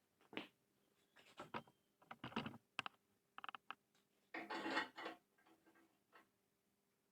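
Scattered clicks, knocks and scraping, with a longer scraping noise a little past halfway, over a faint steady hum.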